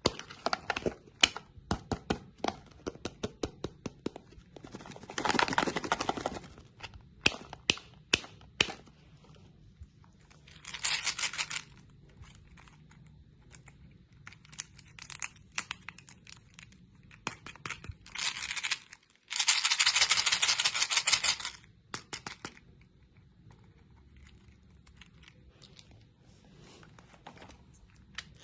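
Crunchy hard candy being cracked and crunched: many sharp, separate cracks, broken up by a few longer noisy crunching stretches of a second or two, the loudest about two-thirds of the way through.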